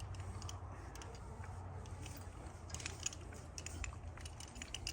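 Light scattered metallic clinks and handling noise, like climbing gear or rope hardware being handled, over a steady low hum.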